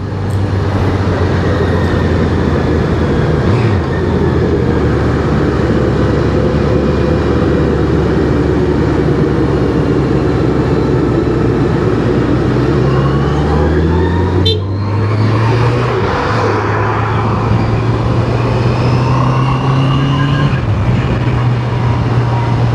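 Honda CBR650R's inline-four engine running steadily while riding. About two-thirds of the way through there is a brief dip, then the engine's pitch climbs as it revs up.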